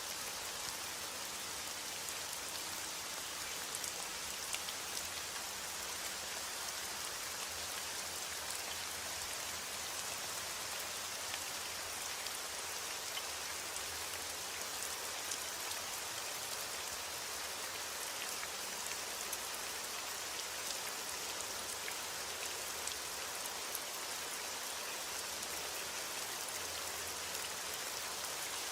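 Steady heavy rain falling: a dense even hiss with many individual drops ticking through it.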